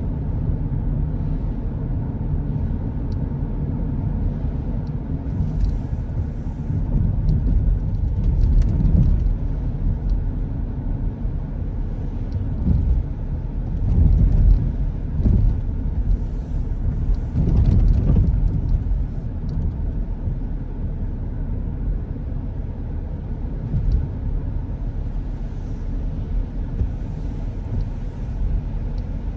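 Car driving along a road: a steady low rumble of engine and tyre noise, swelling louder a few times.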